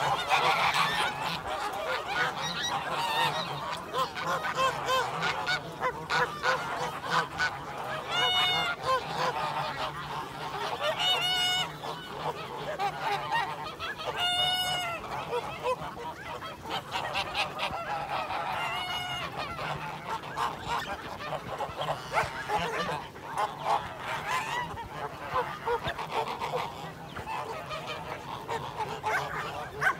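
A large flock of birds calling continuously, many voices overlapping, with a few louder honk-like calls standing out.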